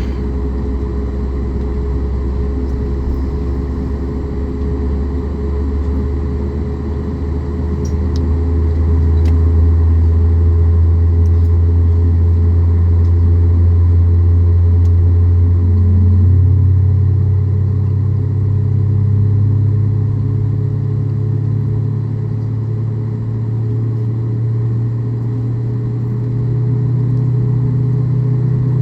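Boeing 737 MAX 8's CFM LEAP-1B engine spooling up during engine start, heard inside the cabin: a steady low drone whose pitch slowly rises, with a second, higher tone joining about sixteen seconds in and also climbing, over a constant hum.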